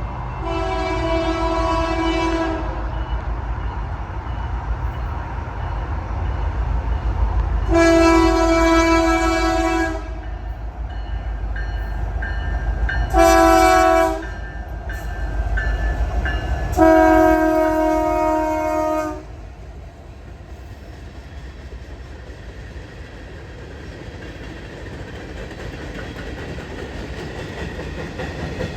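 Norfolk Southern 1080, an EMD SD70ACe diesel locomotive, sounding its air horn in the long-long-short-long grade-crossing pattern over the rumble of its engine. After the last blast the horn stops and the quieter running of the train carries on.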